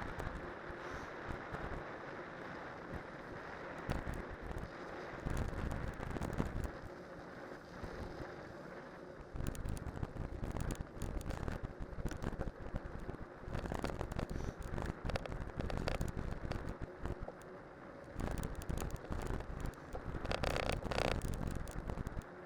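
Cyclocross bike on studded tyres rolling downhill over a winter road: a steady rush of tyre noise with frequent rattling clicks, and gusts of wind on the microphone.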